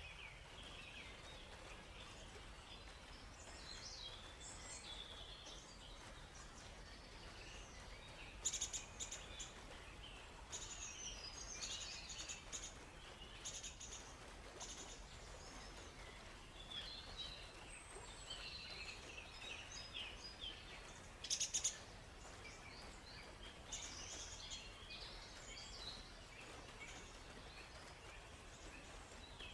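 Small forest birds chirping and trilling on and off over a faint steady hiss, with two short, loud bursts of sharp calls, about eight seconds in and about twenty-one seconds in.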